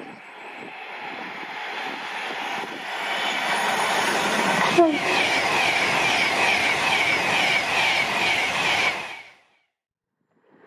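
A train passing at speed on the main line, growing louder over about four seconds as it comes close, with a single sharp crack about five seconds in. The sound cuts off abruptly near the end.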